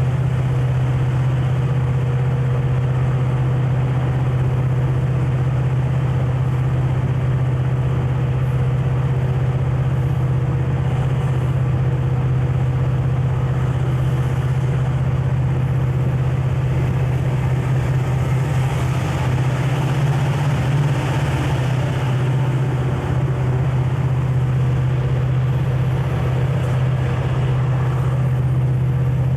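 Conrail diesel locomotive running with a steady low drone, over a noisy haze of rolling and rail noise. The higher hiss swells briefly about two-thirds of the way through.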